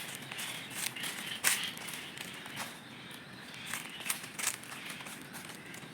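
Footsteps on the forest floor: irregular crackles and crunches of leaves and twigs underfoot, over a faint steady outdoor hiss.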